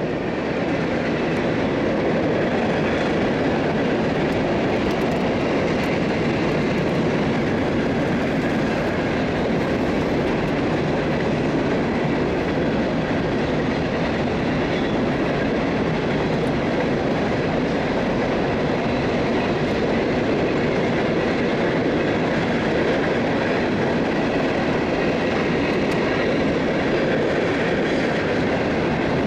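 Freight cars of a mixed train (boxcars, tank cars and covered hoppers) rolling past on the rails: a steady rumble of steel wheels on track.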